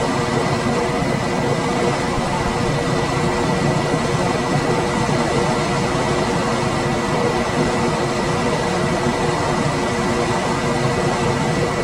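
Room air conditioner running steadily: an even rush of fan air with a low motor hum and a faint steady whine.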